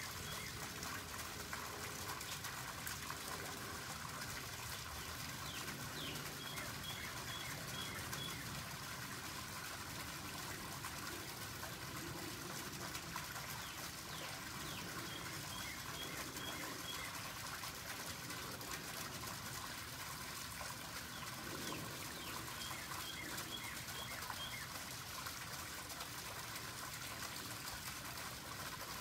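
Outdoor ambience: a steady background hiss, with a small bird singing a short phrase of about five quick, high, evenly spaced notes, repeated about every eight seconds, three times.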